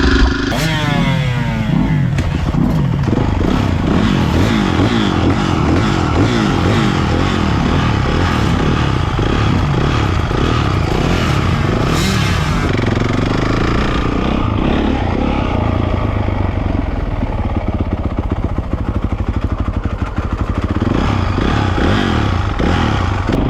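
Dirt bike engines running and revving, their pitch rising and falling constantly with the throttle, with a sharp drop in pitch about a second in.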